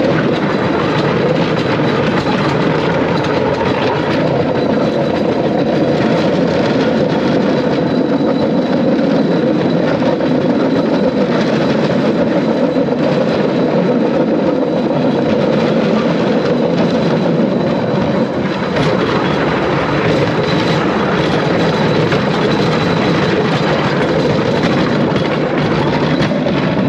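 Motorised bamboo train (norry) running along its track: a steady, loud noise of its small engine and its wheels on the thin rails, with light clatter over the rail joints.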